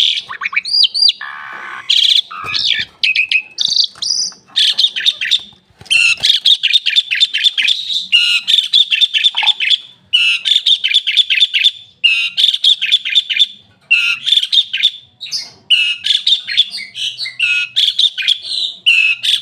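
Asian pied starling (jalak suren) singing: loud bouts of rapid, chattering notes mixed with whistled glides, broken by short pauses every couple of seconds.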